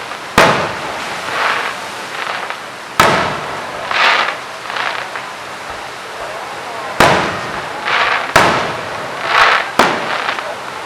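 Aerial fireworks shells bursting: five sharp, loud bangs spaced one to four seconds apart, with shorter hissing crackle swelling between them.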